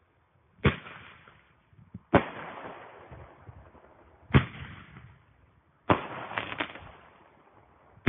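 Bomb-tube firework firing a string of sharp bangs, one every one and a half to two seconds, each trailing off in a fading echo, with three in quick succession about six seconds in.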